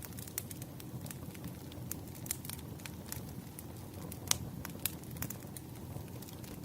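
Burning firewood crackling: irregular snaps and pops over a steady low rumble, with one louder pop about two-thirds of the way through.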